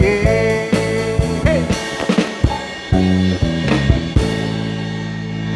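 Rock band playing the closing bars of a song on drum kit and guitar, ending about four seconds in on a chord that is held and slowly fades.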